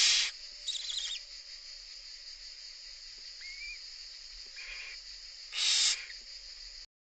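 Barn owls giving two short, harsh hissing calls, one at the start and one near the end. Brief high chittering follows about a second in. The sound cuts off abruptly just before the end.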